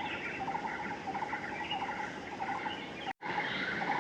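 Small birds chattering, with short repeated call phrases, over a steady rush of wind. The sound cuts out for a split second about three seconds in.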